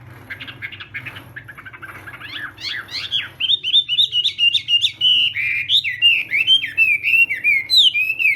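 Chinese hwamei singing: a soft, rapid twittering for the first three seconds or so, then loud, varied whistled phrases of quick rising and falling notes.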